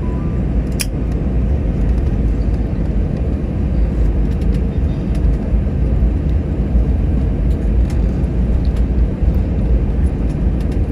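Steady low rumble of cabin noise inside an Airbus A321-211 on the ground after landing, with one short click a little under a second in.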